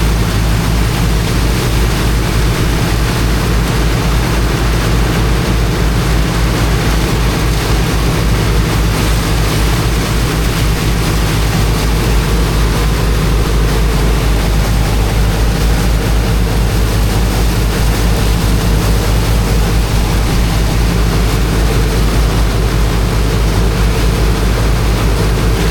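Engine of a high-pressure water pump running steadily at constant speed under a loud, even rush of water from the jet.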